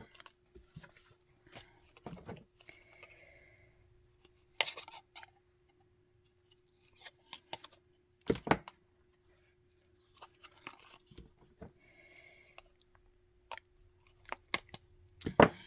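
Buttons and paper being handled and laid out on a craft table: scattered sharp clicks and taps with soft paper rustling between them, over a faint steady hum.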